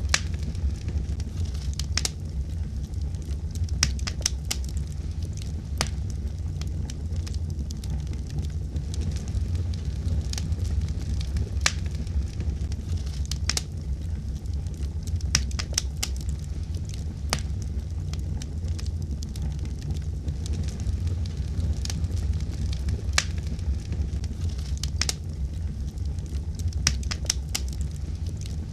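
Fire burning in a fireplace, crackling with irregular sharp pops and snaps over a steady low rumble of the flames.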